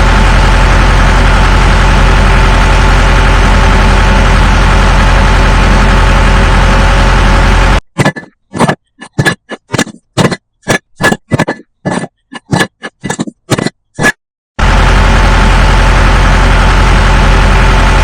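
A steady engine-like motor drone with a strong low hum. In the middle it comes in many short bursts, about two a second, then runs steadily again.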